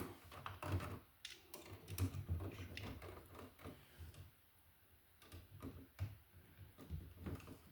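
Faint, scattered small clicks and taps of hand tools and a copper wire being handled as a hook loop is bent in the wire end for a receptacle's screw terminal.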